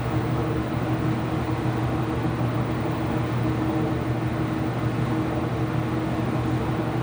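Ipso washing machine running mid-cycle: a steady motor hum with a constant mid-pitched tone over it, unchanging throughout.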